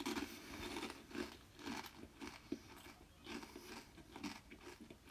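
Dirt and rubble in a skip being pressed down and compacted: a string of irregular crunches and scrapes.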